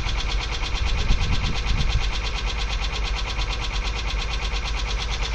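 Honda Passport engine idling with a fast, even ticking on top, which the owner likens to noisy lifters and calls a very high-pitched noise that is not normal.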